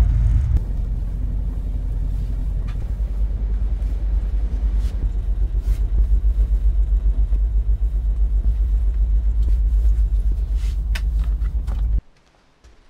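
Low, steady rumble of a passenger train running, heard inside a sleeper coach, with a few faint clicks and rattles. It cuts off abruptly near the end.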